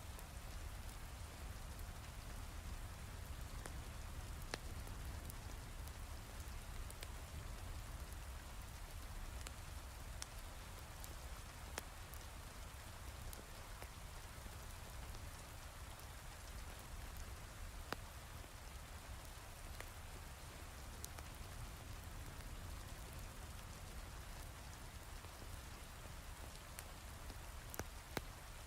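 Steady heavy rain hissing evenly over a low rumble, with a few isolated sharp crackles from a log fire scattered through it.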